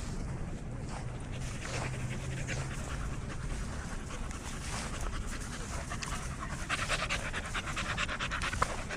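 Bully-breed dog panting, the rapid breaths growing louder and quicker about two-thirds of the way through.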